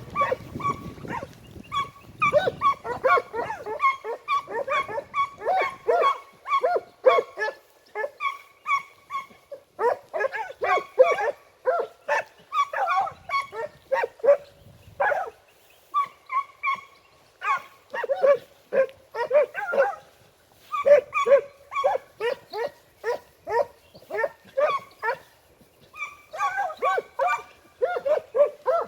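Pack of scent hounds (segugi) giving tongue, several dogs baying in short, overlapping calls of different pitch, two or three a second with brief lulls. This is the hunting voice of hounds working a hare's scent trail.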